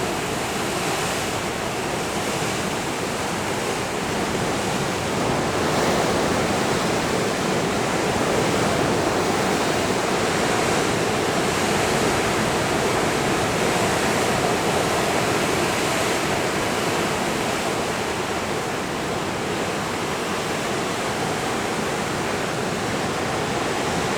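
Ocean surf: a steady, loud wash of breaking waves that swells and eases slowly.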